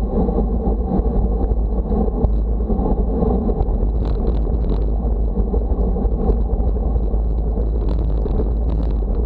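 Steady wind noise buffeting the microphone, a heavy low rumble that never lets up.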